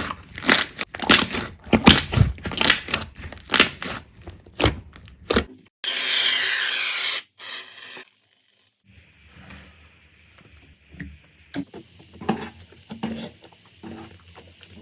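Slime being squeezed and worked by hand: a fast run of crackling clicks and pops, then a loud hissing rasp lasting about a second and a half, a moment of silence about eight seconds in, then softer, sparser squishing clicks.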